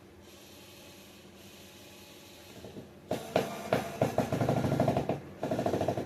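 Small electric drill driving a screw in short, uneven bursts of its motor, starting about three seconds in, with a brief pause near the end.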